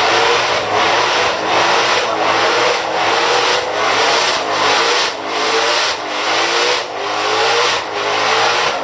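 Supercar engine revved again and again in short bursts, the pitch climbing and dropping back about every three quarters of a second.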